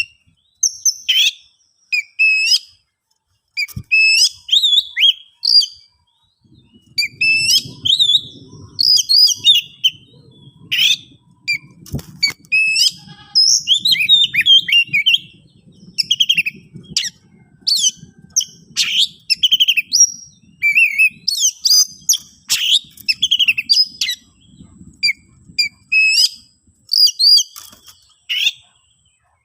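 Oriental magpie-robin (kacer) singing in short, loud bursts of rapid, varied chirps and whistles with brief pauses between phrases. It is the agitated, aggressive song of a male worked up to fight a rival.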